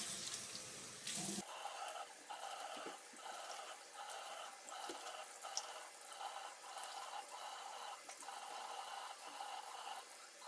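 Tap water running into a sink while a dried face mask is rinsed off. The stream is broken off and restarts about twice a second as water is splashed onto the face.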